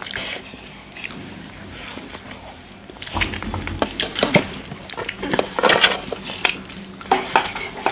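Close-up eating sounds: wet chewing and mouth noises with irregular small clicks, as people eat rice and curry.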